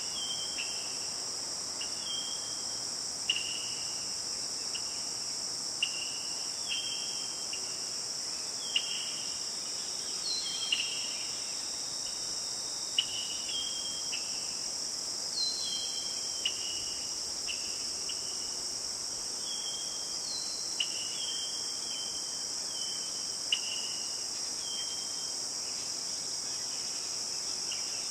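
A steady high-pitched drone of insects in a tropical forest. Short repeated chirps come every second or so beneath it, and a sharp click is heard every few seconds.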